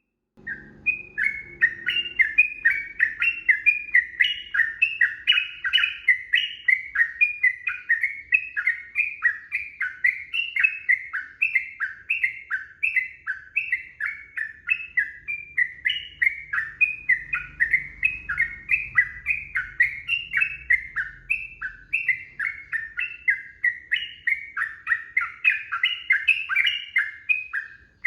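Yellow-vented bulbul (trucukan) singing a long, unbroken run of rapid chirping notes, about four a second, starting about half a second in.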